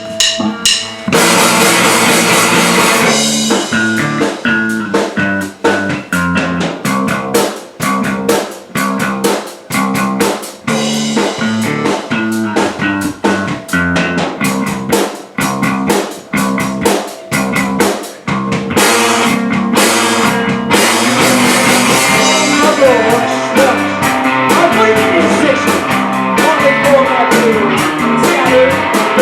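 Live rock band playing a song on drum kit and guitar, with sharp stop-start hits through the first half and steady full playing after that.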